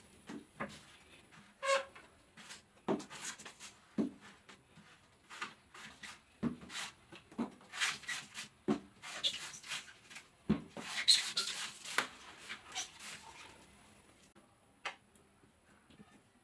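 A blade chopping and cutting into a fresh coconut: irregular dull knocks mixed with crisp slicing and scraping cuts, busiest about halfway through.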